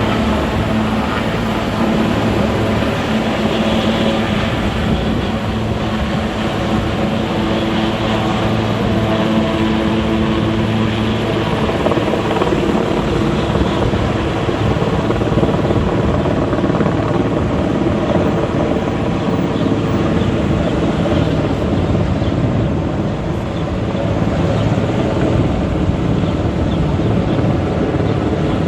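Helicopter running steadily, a loud continuous rotor and engine noise with a steady low hum.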